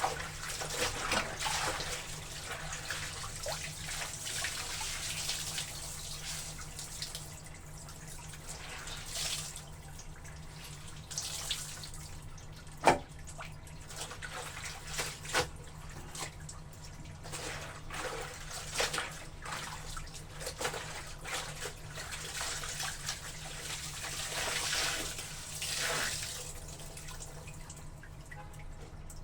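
Water splashing and sloshing in irregular surges as clothes are washed in a tub, with a single sharp knock about thirteen seconds in and a steady low hum underneath.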